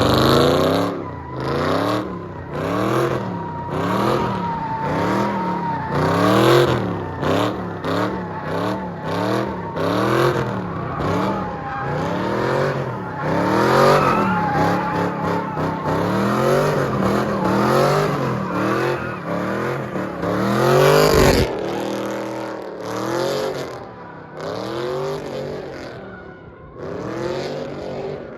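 A car's V8 engine revved up and down over and over, about once a second, while the car slides, with a steady tyre squeal through the first half. There is a sudden break about three-quarters of the way through, then the revving carries on more quietly.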